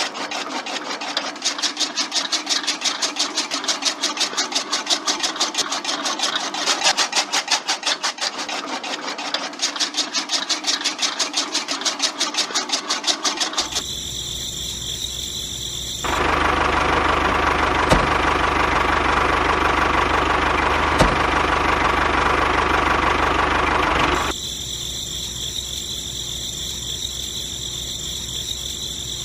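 Small motor of a toy-scale DIY chaff cutter running. A fast, even chattering for about the first half, then a steadier hum that gets louder for several seconds and drops back near the end.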